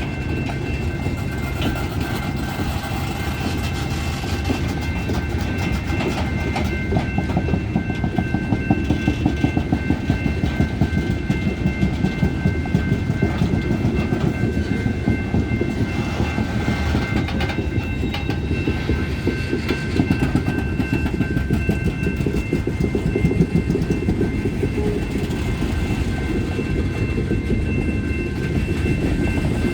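A freight train of garbage cars rolling past, the wheels clacking rapidly over the rail joints under a continuous low rumble. A faint steady high-pitched whine or ring runs through it all.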